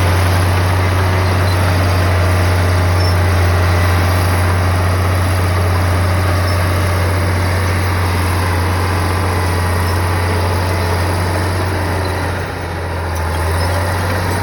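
Bulldozer's heavy diesel engine running steadily with a strong low hum, dipping briefly near the end.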